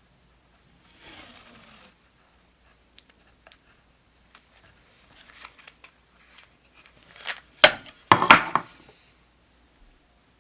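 Paper and stationery being handled on a desk: a short rustle about a second in, scattered light clicks and taps, then a cluster of sharp clicks about three quarters of the way through, the loudest sounds.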